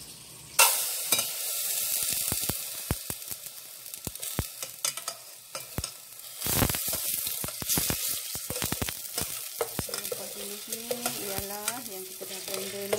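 Blended spice paste (rempah tumis) dropped into hot oil in a stainless steel pot, sizzling sharply from about half a second in and surging again about six and a half seconds in. A spatula stirs the paste, with many small scraping clicks against the pot.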